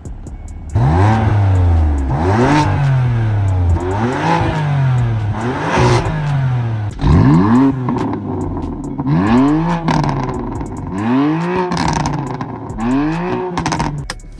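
BMW F80 M3's twin-turbo S55 inline-six, breathing through the Competition exhaust and a single mid pipe, revved repeatedly from idle: about eight quick blips, each rising sharply and falling back, starting just under a second in.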